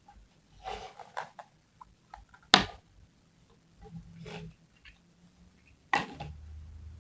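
Small objects being handled on a hard surface: a few brief soft scrapes and rustles, with a sharp click about two and a half seconds in and another near the end, after which a low steady hum starts.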